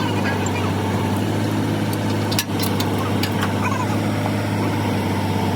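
An engine running steadily with a low hum, with a few short sharp metallic clicks around the middle.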